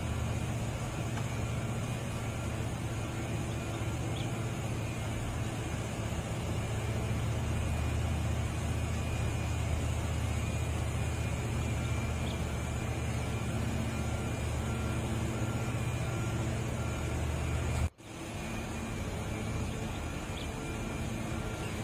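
Heavy diesel engine running steadily with a low hum. The sound cuts out for an instant near the end, then carries on.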